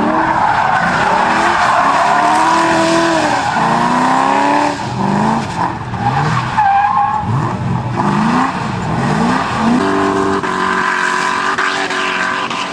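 A tuned car engine revving hard up and down again and again, its pitch rising and falling in quick swings, with tyres squealing.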